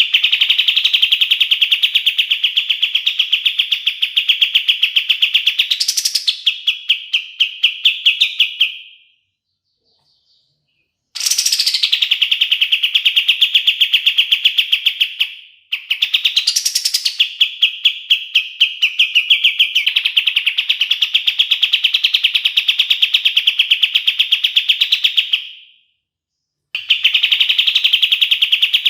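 A kapas tembak songbird singing long, rapid, high trills on one steady pitch, in several bouts of a few seconds to about ten seconds each, with short pauses between them. Twice the trill is broken by a sharp upward whistle.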